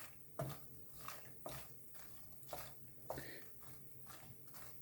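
Spoon stirring dry-roasting foxnuts (makhana) in ghee in a deep pan: faint, irregular scrapes and clicks, roughly two a second.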